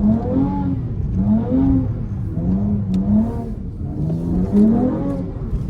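Car engine revving in repeated rising and falling surges, about one a second, as the throttle is worked while sliding on wet pavement.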